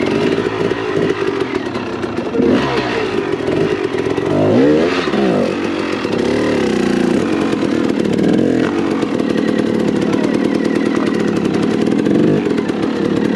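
Enduro dirt bike engine revving up and down repeatedly as the bike is worked over rocks, with occasional clatter.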